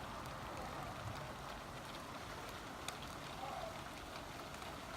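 Heavy rain pouring down steadily, an even hiss with a few faint drop ticks.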